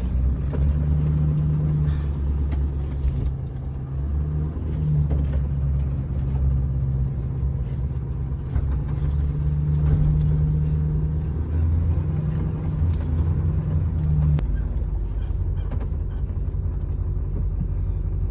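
Diesel pickup truck engine running steadily, a deep even hum with small rises and falls in level.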